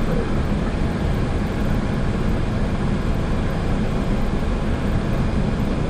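Steady flight-deck noise of a Boeing 737-800: a continuous low rumble from the engines and airflow, with a hiss over it.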